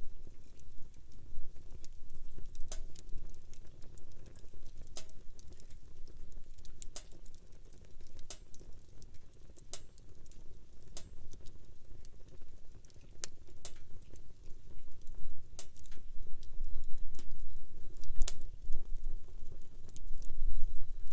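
Wood campfire crackling, with irregular sharp pops and snaps over a low rumble that grows louder near the end.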